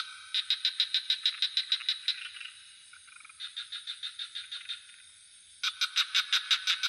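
Frogs calling in rapid pulsed trills of about eight pulses a second, in bouts with short pauses between them, over a steady high insect drone.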